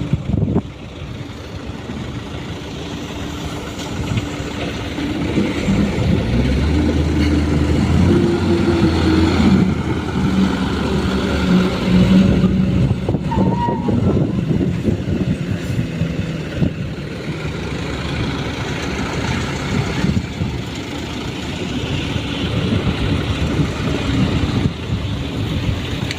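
Diesel engines of small dump trucks running, growing louder from about five seconds in and easing off after about twelve seconds.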